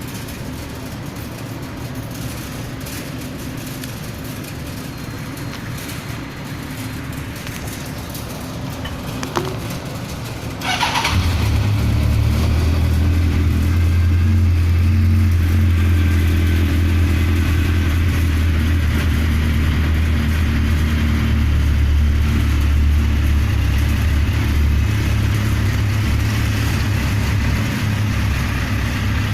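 Suzuki GSX1400 inline-four with a Giannelli aftermarket exhaust, cranked on the starter and firing up about eleven seconds in. It then settles into a steady, deep idle through the exhaust.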